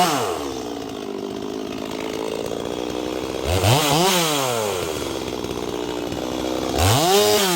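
Two-stroke chainsaw idling between three quick revs, about three to four seconds apart, each rising and falling in pitch, with no cutting load. It is being blipped to clear sawdust through it and to check that oil is coming off the bar.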